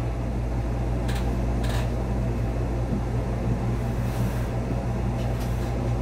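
Steady low hum and fan noise of a Busan Subway Line 4 train standing at a station, heard inside the cab, with a few brief soft hisses about one and two seconds in.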